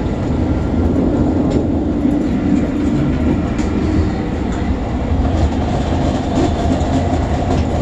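Passenger train rolling along the track: a steady low rumble with scattered light clicks.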